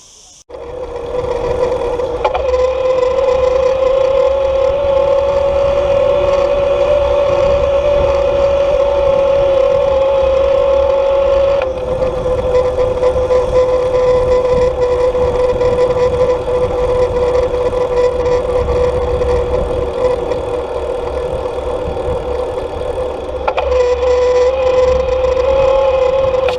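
Steady, loud motor whine holding near one pitch, with a few abrupt small jumps in pitch and level.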